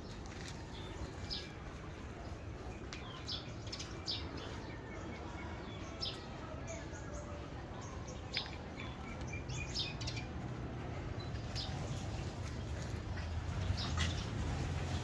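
Birds chirping with scattered short, high calls, over a low steady background rumble that grows louder near the end.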